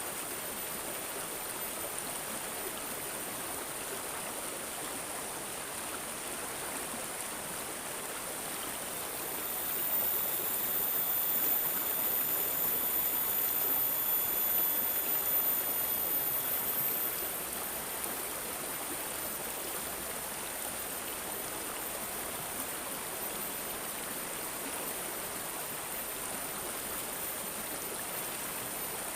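A stream babbling and trickling steadily, a bright hiss of running water. It swells louder for several seconds about a third of the way in, joined by a faint high steady tone.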